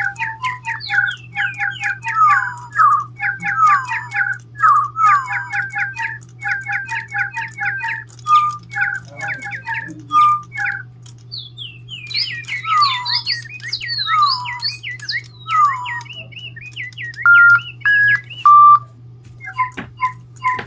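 A group of DigiBirds electronic toy birds chirping and whistling together: fast runs of tweets, sliding whistled notes and a few held tones near the end, over a steady low hum.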